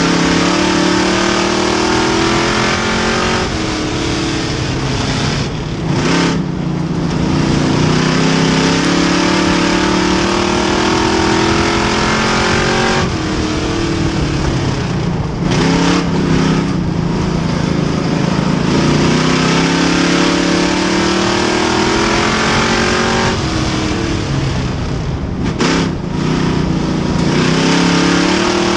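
A field of race car engines running hard on an asphalt track. The pitch climbs and falls as the cars accelerate and back off, in a cycle that repeats about every ten seconds, with brief dips in the sound about 6, 16 and 26 seconds in.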